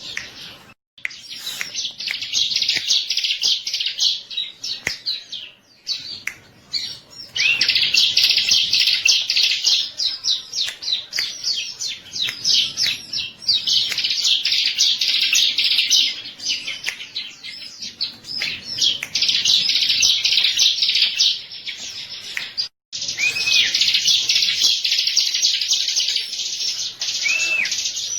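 Ciblek (bar-winged prinia) singing: long bursts of fast, high-pitched chirping trills several seconds each, broken by short pauses. The song cuts out abruptly about a second in and again for an instant near the end.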